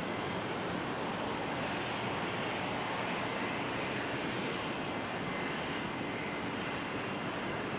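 Boeing 737-800's CFM56 jet engines running: a steady rush of jet noise with a faint high whine.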